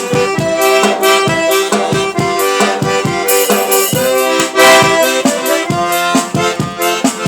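Accordion (sanfona) playing a traditional Brazilian bonfire song: held melody notes over a steady pulse of short bass-and-chord strokes, about three to four a second.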